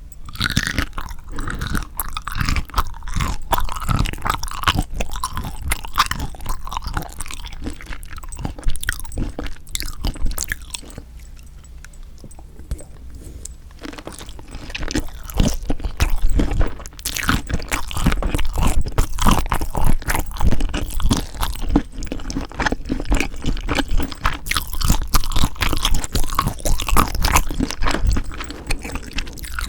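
A person eating spicy seasoned raw shrimp (yangnyeom saeujang), close to the microphone: dense, irregular chewing and biting with crunchy, wet mouth sounds. There is a quieter lull about eleven to fourteen seconds in.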